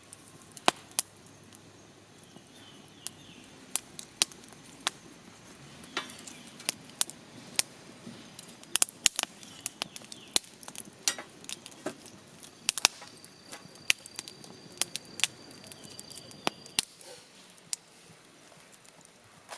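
Sharp, irregular clicks and snaps, at times several a second, over a faint background. A thin, steady high tone sounds for about three seconds in the latter half.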